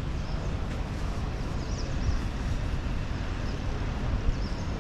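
Steady outdoor background noise with a constant low rumble and a few faint, short, high chirps.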